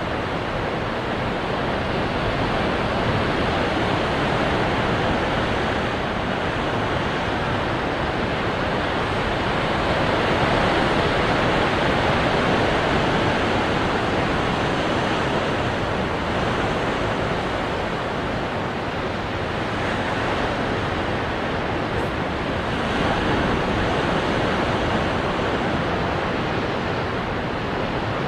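Ocean waves breaking on rocks: a continuous wash of surf that swells and eases every several seconds.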